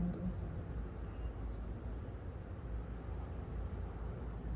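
Insects, typical of crickets, keeping up a steady, unbroken high-pitched chorus over a low background rumble.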